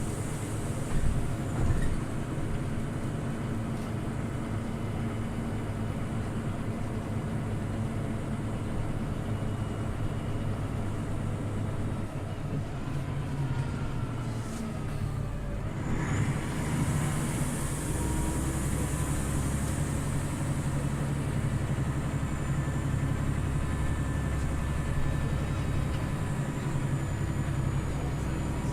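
Scania OmniLink CL94UB city bus on the move, heard from inside the cabin: a steady engine hum with road noise and a few knocks in the first couple of seconds. The engine eases off for a few seconds before the middle, then grows louder again as the bus picks up speed.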